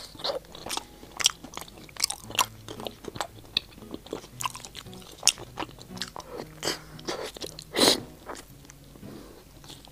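Biting into and chewing a large, soft and chewy chocolate mochi dumpling dusted with cocoa powder: irregular mouth clicks and smacks, with the loudest bite about eight seconds in.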